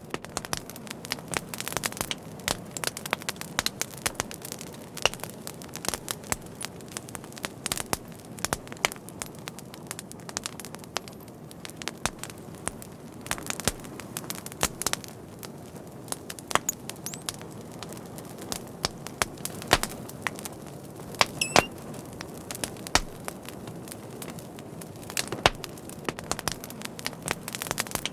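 Fire crackling: a steady low rush of flames with dense, irregular sharp pops and snaps, and a short high whistle about three quarters of the way in.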